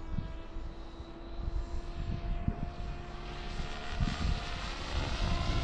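Radio-controlled Kraken 580 electric helicopter in flight, its rotor and motor giving a steady whine. Gusts of wind buffet the microphone with low rumbles throughout. The tail, now on a lower gyro gain, is holding steady.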